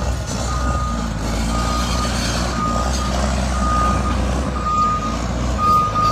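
Backup alarm of heavy demolition machinery beeping about once a second, a steady single-pitched beep, over the low rumble of a diesel engine.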